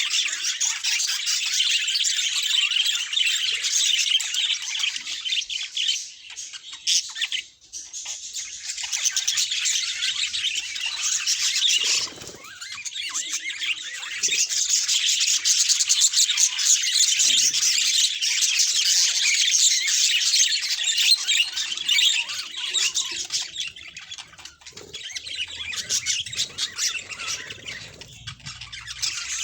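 Budgerigars chattering in a dense, continuous, high-pitched stream, with a few brief lulls.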